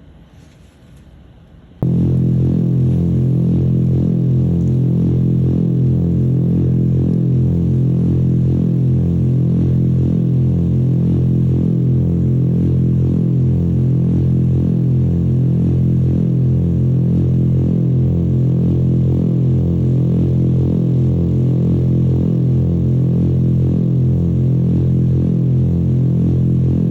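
Loud, steady low-pitched hum with a regular slow throb, starting suddenly about two seconds in: a low test tone driving a speaker for a cymatics display.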